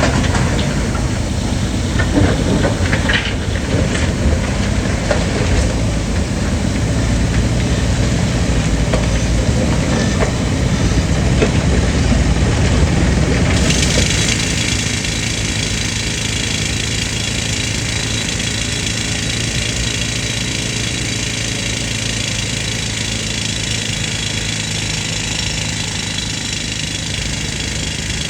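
An old air compressor's engine running loudly with a heavy low drone and scattered knocks. About halfway through the sound switches abruptly to the steady high rattle and hiss of a pneumatic rock drill running on the compressor's air.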